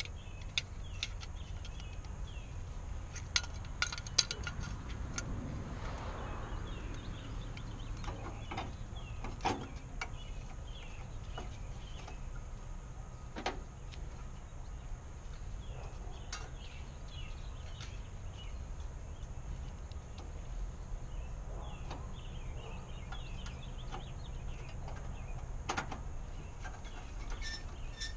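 Scattered metallic clicks and clinks as a headlight and its bezel are handled and fitted on a truck's front end, a few sharper knocks among them. Birds chirp faintly in the background over a low steady rumble.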